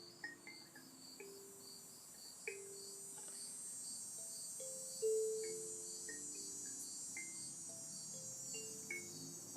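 Night insects chirping in an even high pulse about two to three times a second over a steady high buzz, with soft melodic notes, like chimes or a mallet instrument, sounding about once a second; the loudest note comes about halfway through.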